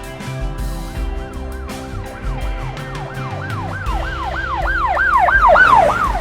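Police siren in a fast yelp, its pitch swooping up and down about three or four times a second. It comes in about two seconds in, grows louder, and begins to fade right at the end, over background music with a steady beat.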